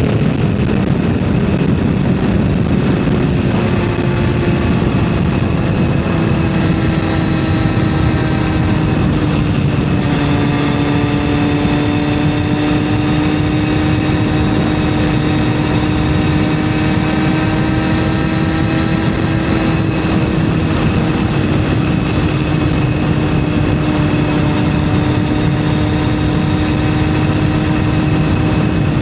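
Yamaha FZS600's inline-four engine running under way, heard from on the bike over a low rush of wind and road. The engine note falls over the first ten seconds as the bike slows, then holds nearly steady, rising slightly.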